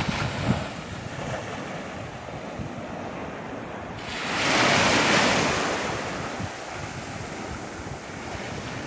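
Ocean surf: a steady wash of waves, with one wave breaking and rushing in louder about four seconds in, then fading. Wind buffets the microphone underneath.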